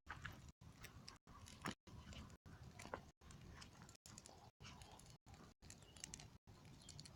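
Small campfire crackling faintly, with a few sharper pops at about a quarter second, near two seconds and near three seconds in.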